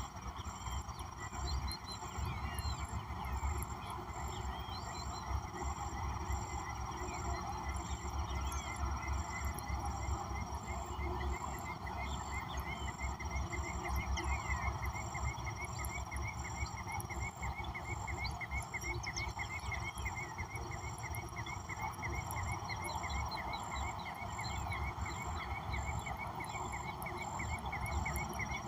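Frog chorus with a steady, pulsing high insect trill and scattered bird calls. A fast run of repeated chirps joins partway through.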